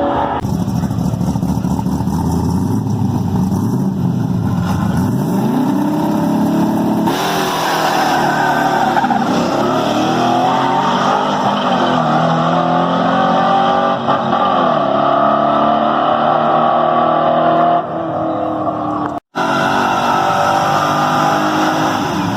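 Loud muscle-car engines revving and accelerating hard, their pitch sweeping up and down over several shots, with a brief sudden dropout about 19 seconds in.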